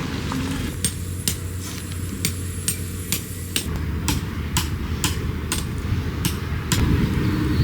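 Repeated hammer strikes: sharp knocks about two a second that start about a second in and stop near the end, over a steady low background rumble.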